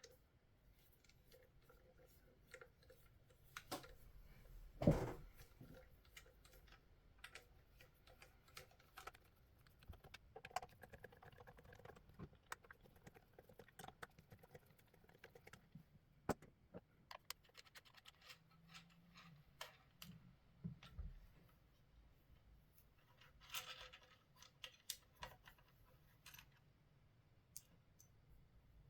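Faint scattered clicks, taps and scrapes of small tools and parts while a Xiegu X6200 transceiver is taken apart by hand, with one louder knock about five seconds in.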